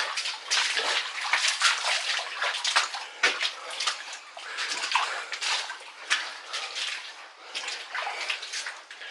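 Footsteps wading through shallow flood water in an old railway tunnel, splashing and sloshing irregularly.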